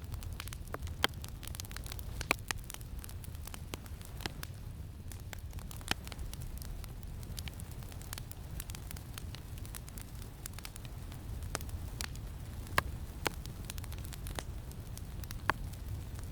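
Campfire crackling, with irregular sharp pops scattered through it, a few of them louder, over a steady low rumble of wind.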